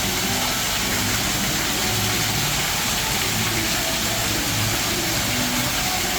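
Steady rushing room noise with a low hum underneath: the water features and background din of a large rainforest-themed dining room.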